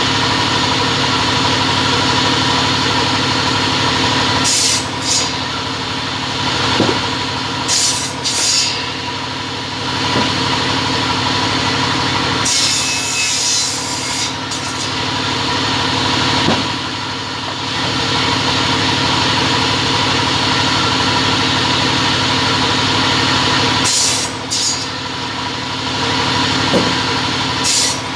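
A double-head cutting saw running with a steady motor hum, with several brief cutting passes spaced a few seconds apart.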